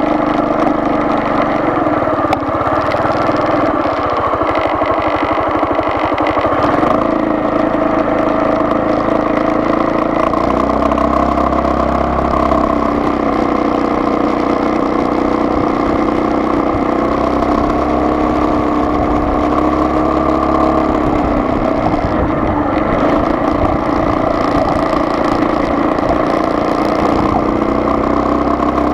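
Car engine running at a steady drone under road noise while driving; the pitch and the low rumble shift slightly about ten seconds in.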